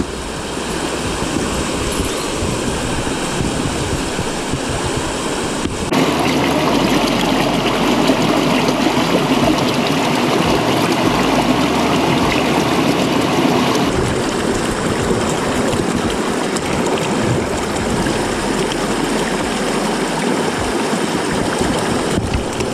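Mountain stream water rushing over rocks, a steady rush that gets louder suddenly about six seconds in and drops back about eight seconds later.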